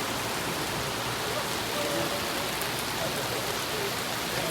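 Steady rain falling, an even hiss of drops with no single sounds standing out.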